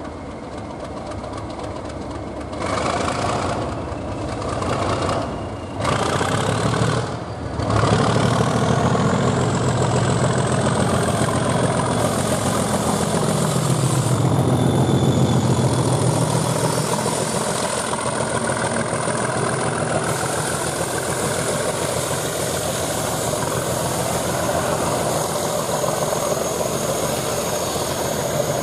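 Class 37 and Class 70 diesel locomotives running coupled as a light engine, with a heavy diesel engine throb. A whine rises in pitch about seven to ten seconds in, and the engine sound stays loud and steady after that.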